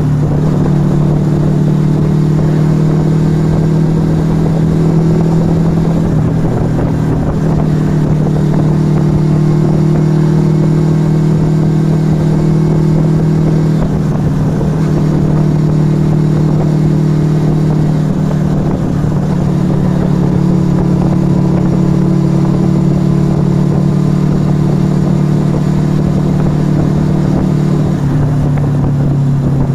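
Yamaha XV125 Virago's small air-cooled V-twin running through a Turbo Kit aftermarket exhaust at riding speed. The engine note holds steady, with its pitch shifting to a new level a few times.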